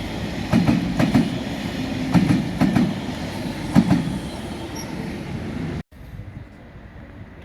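Train wheels running over rail joints: a steady rumble broken by clusters of sharp clacks every second or so. The sound cuts off abruptly near the end, leaving only faint background noise.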